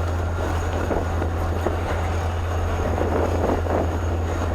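Steady low engine drone under an even rushing noise.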